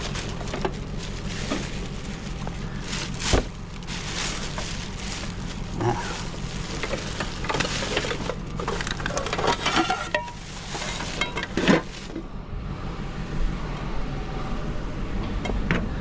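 Scrap items being handled and sorted: clattering and scattered knocks of metal and plastic pieces, with a sharp knock about three seconds in and another near twelve seconds, over a steady low hum.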